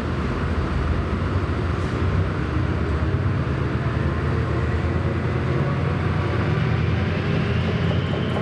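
Class 68 diesel-electric locomotive running hard as it pulls away, a steady low engine drone with a thin whine climbing in pitch over the second half as the train gathers speed.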